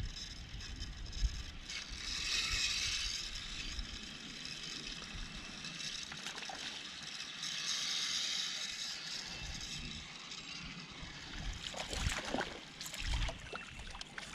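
Water splashing and sloshing around a small fishing boat, swelling twice, with a few low knocks near the end.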